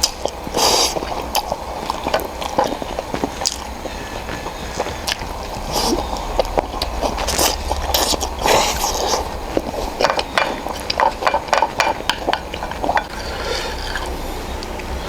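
A person eating spicy ramen noodles: slurps and chewing, with many small wet clicks and smacks, thickest near the end.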